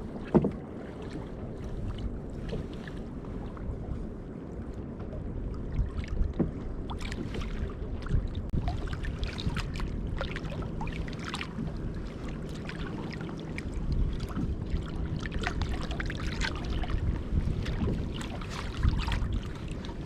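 Sea water lapping against a kayak's hull, with a low wind rumble on the microphone and scattered small knocks and clicks, the sharpest one just after the start.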